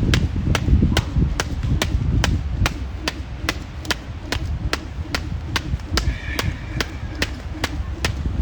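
A 1 lb weighted jump rope slapping the ground in a steady rhythm, about three skips a second, over a low rumble.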